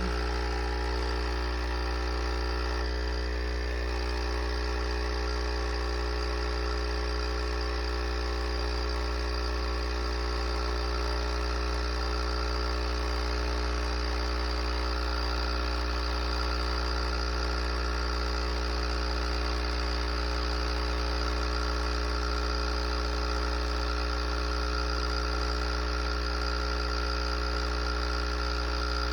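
Espresso machine's pump running steadily with a constant low hum and buzz while it dispenses coffee into the cup.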